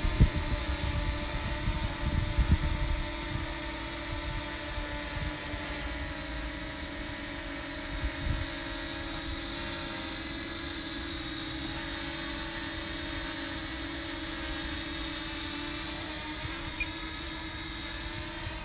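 DJI Mini 2 drone's propellers buzzing steadily, one held pitch with higher overtones. Wind buffets the microphone in gusts for the first few seconds.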